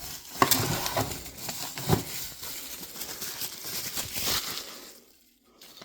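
Rustling, scraping and scattered knocks of a cardboard parts box and its packaging being handled to get at the ignition coils inside, dying away about a second before the end.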